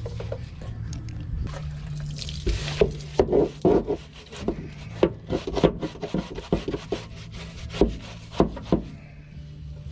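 Stiff brush scrubbing the grimy underside and frame of a car by hand, in quick irregular strokes over a steady low hum.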